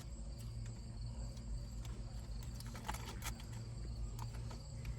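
A steady low hum with a few faint clicks and rustles from plates and food containers being handled while food is shared out.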